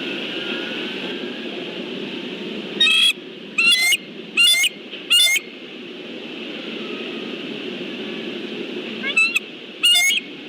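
Bald eagles calling: four loud, high-pitched calls in quick succession, then after a pause two more near the end, over a steady background noise.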